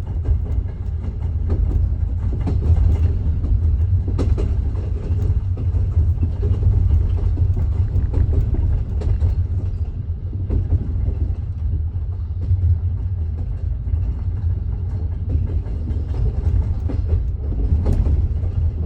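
Train wheels knocking over rail joints, a clickety-clack set over the steady low rumble of a moving railway carriage, heard from inside the carriage.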